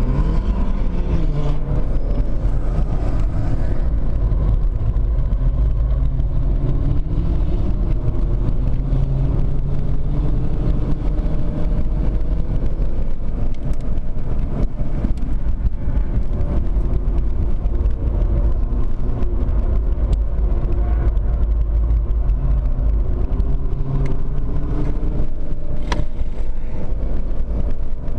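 BMW E91 325d's straight-six diesel engine heard from inside the cabin at track pace, its pitch rising again and again under acceleration and dropping back at gear changes and braking, over a deep, steady rumble of tyre and road noise. A single sharp click near the end.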